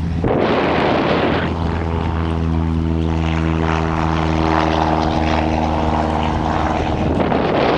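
Boeing B-17's four radial engines and propellers running in a loud, steady drone, starting abruptly.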